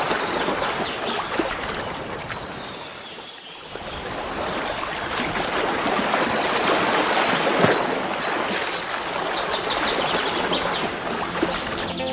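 Flowing water in a steady rush that fades briefly and swells back, with a bird giving a quick run of high chirps near the end.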